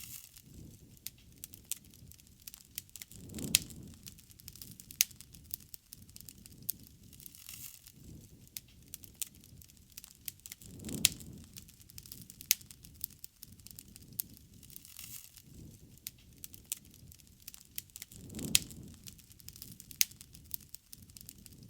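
Wood bonfire crackling, with frequent sharp pops and snaps over a low rush of flame. The rush swells three times, about seven seconds apart.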